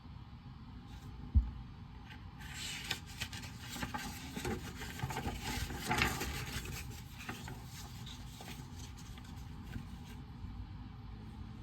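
Rubbing and scratching on paper at a study desk, a dense run of fine strokes lasting several seconds, after a single soft thump about a second in.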